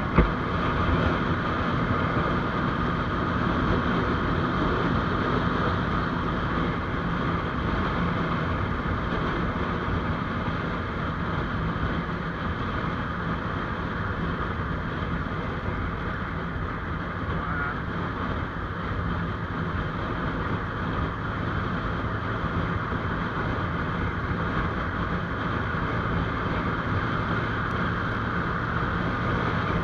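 GPX Demon GR200R motorcycle engine running steadily while riding, with wind on the microphone. A single short knock comes just after the start.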